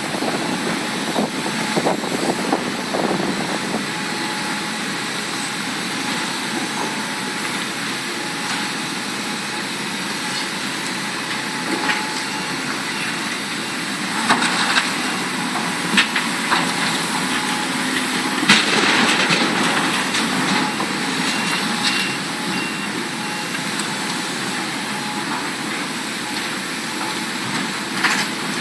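Large Hitachi Zaxis hydraulic excavators working, their diesel engines running steadily, with scattered sharp knocks and clanks, a cluster of them about two-thirds of the way through.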